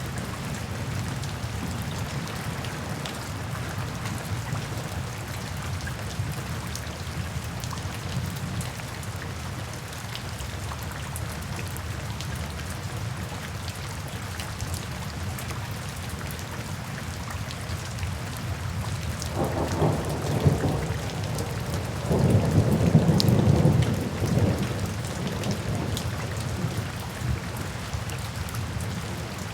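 Steady rain falling, with thunder rumbling low underneath and two louder rolls of thunder about two-thirds of the way through.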